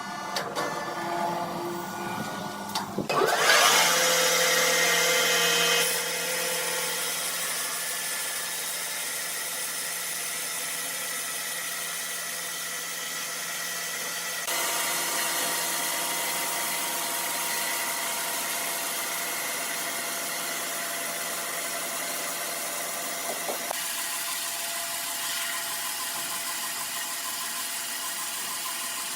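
Sawmill machinery running steadily, a saw cutting wood. The sound changes abruptly about three seconds in, again about halfway, and once more later on.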